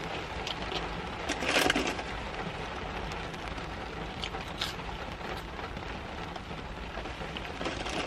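Steady rain falling on the car, heard from inside the cabin, with one brief louder noise about a second and a half in.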